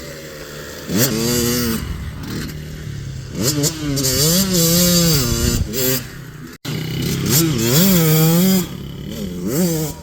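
KTM 65's 65cc two-stroke single-cylinder engine revving up and down in several surges, its pitch rising and falling with the throttle.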